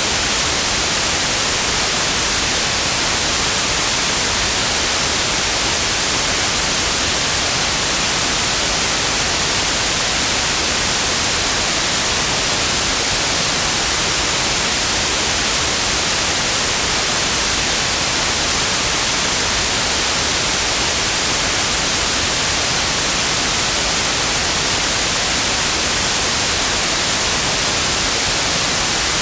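Steady, loud white noise: an even hiss spread across all frequencies, strongest in the highs, with no change.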